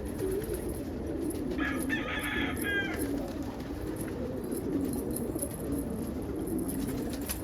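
Many domestic pigeons cooing together, a steady low warbling chorus. There is a brief higher-pitched call about two seconds in.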